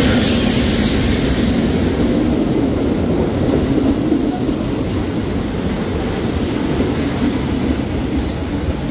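State Railway of Thailand passenger train pulling into the platform. Its diesel-electric locomotive goes by loudest right at the start, then the coaches roll past with a steady rumble of wheels on rails. There is a faint squeal of wheels near the end as the train slows.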